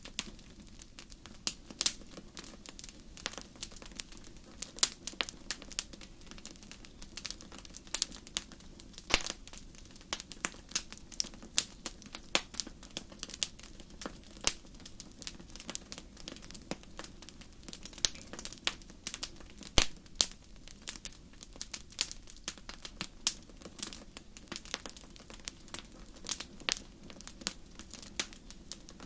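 Wood fire crackling: a steady stream of irregular sharp pops and snaps, a few louder ones, over a low steady hiss.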